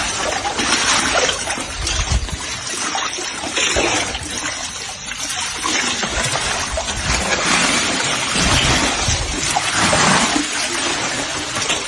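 Water splashing and running, in uneven surges that swell and ease.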